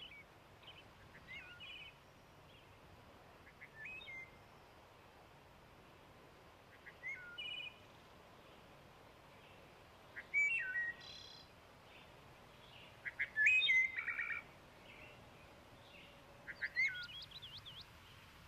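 Songbirds calling: short whistled notes and chirps come every second or so, with a few louder calls around the middle, over a faint steady hiss.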